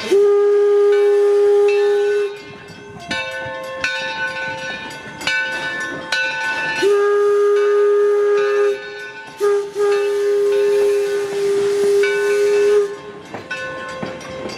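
An 1873 Mason Machine Works steam locomotive's whistle blowing a single steady tone in a long, long, short, long pattern, the standard grade-crossing signal. Between the blasts the train clatters and hisses.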